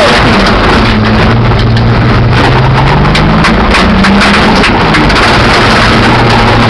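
BMW E28 engine running under hard driving, heard from inside the cabin, its revs climbing and dropping several times. It is misfiring on one or two cylinders on and off. Loud wind and road noise and short knocks from the rough course ride over it.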